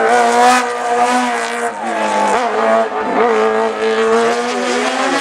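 Hillclimb race car's engine at high revs, held and stepping between gears in the first two seconds. About halfway it backs off with quick wavering blips like downshifts, then revs rise steadily as it accelerates again.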